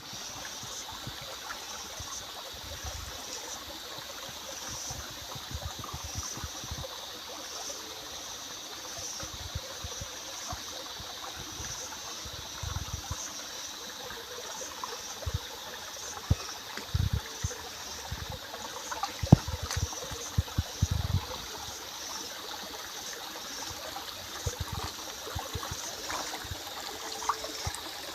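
Running water trickling steadily, with a faint high chirp repeating about once a second. Scattered low thumps and one sharp click come through the middle part.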